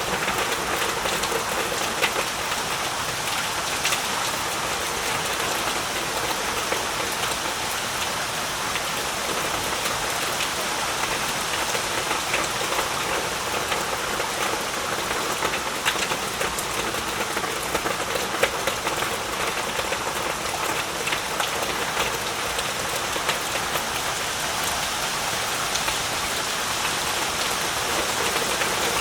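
Heavy rain falling steadily, a dense hiss with many individual drops ticking sharply on surfaces.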